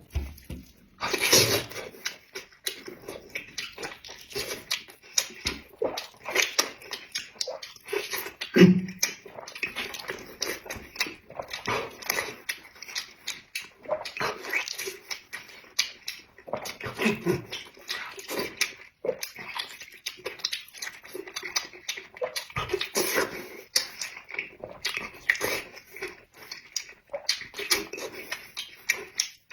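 Close-miked chewing of pork belly: a continuous run of wet clicks and mouth smacks.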